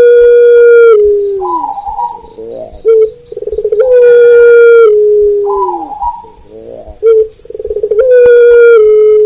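A rooster crows three times, about four seconds apart. Each crow is long, holding its pitch and then falling away at the end. Zebra doves coo in the gaps between the crows.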